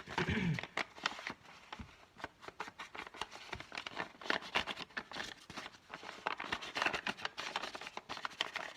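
Walnut stain Distress Oxide ink being rubbed and dabbed onto crinkled craft paper to grunge up its creases: a quick, irregular run of scratchy taps with paper crinkling.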